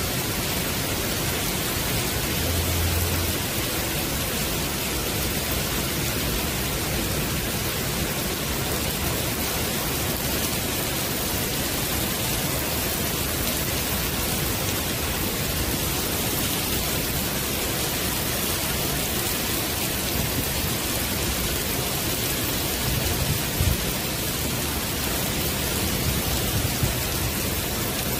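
Heavy rain pouring steadily onto a wooden deck and the surrounding park, an even hiss throughout. A brief low rumble comes a few seconds in and another short one about three-quarters of the way through.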